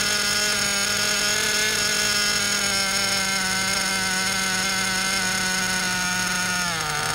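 Werks B5 two-stroke nitro RC engine running steadily on its first break-in tank, one constant buzzing pitch. Near the end the pitch drops as the fuel mixture is richened to bring the RPMs down.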